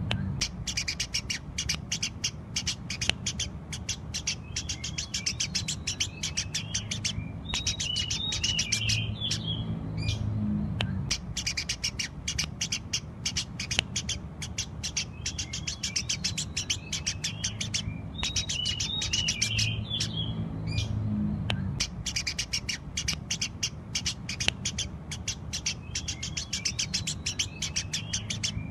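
Sparrows chirping continuously in quick, sharp, dense chirps over a steady low hum. The same stretch of chirping seems to come round again about every eleven seconds, as in a looped recording.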